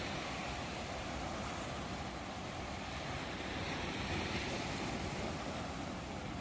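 Ocean surf: a steady, even rush of waves washing in, with no distinct single crash standing out.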